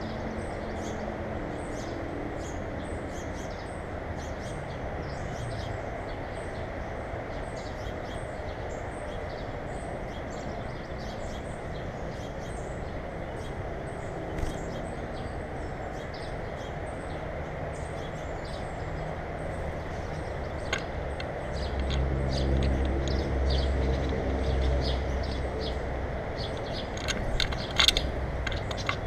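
Small birds chirping faintly and repeatedly over a steady outdoor hum. About three-quarters of the way through, a low engine rumble swells as a vehicle passes, and a few sharp clicks come near the end.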